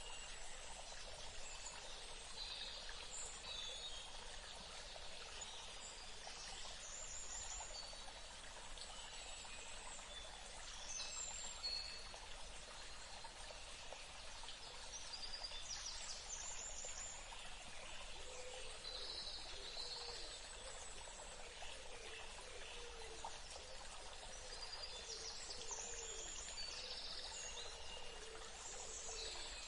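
Forest ambience: steady running water with many birds chirping and trilling over it. A lower repeated call joins in about two-thirds of the way through.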